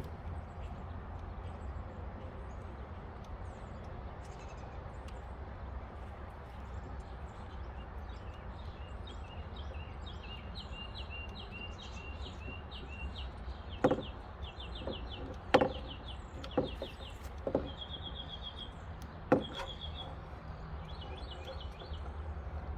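About five sharp knocks from tools or parts against a car door, spaced about a second apart in the second half, over a bird singing repeated fast chips and trills and a steady low hum.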